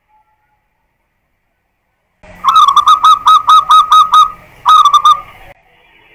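Zebra dove (perkutut) cooing: a fast run of about ten short, bright repeated notes, then after a brief pause a shorter run of three or four, which cuts off abruptly.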